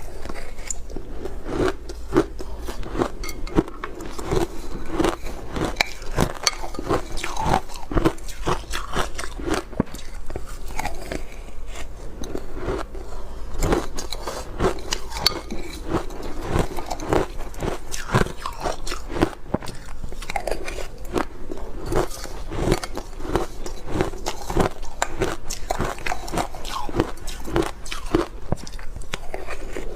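Close-up crunching and chewing of ice: many sharp, irregular crackles as the ice is bitten and ground between the teeth.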